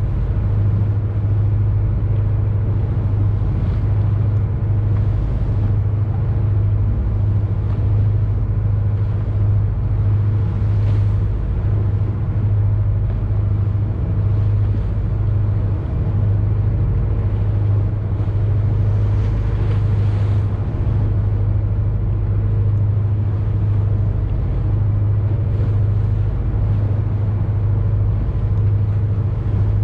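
Boat engine running steadily, a constant low drone with a faint hiss above it.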